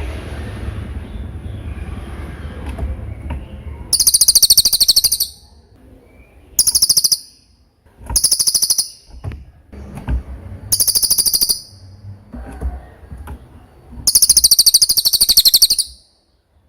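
Cililin (pygmy tit) singing five high, very rapid trills, each lasting from half a second to about two seconds, separated by pauses. A low steady rumble runs underneath.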